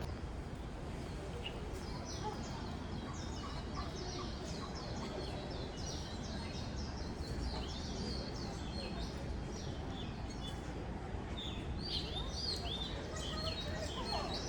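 Small birds chirping over and over, the calls busier near the end, above a steady low background hum.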